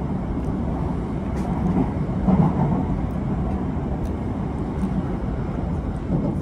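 Steady low rumble of a moving passenger train, heard from inside the carriage, with a few faint clicks.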